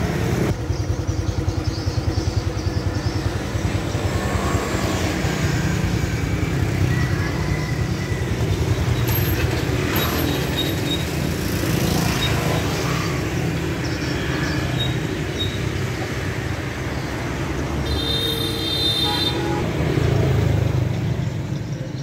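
Honda Future 125's single-cylinder four-stroke engine idling with a steady low chug. A short high-pitched tone sounds briefly near the end.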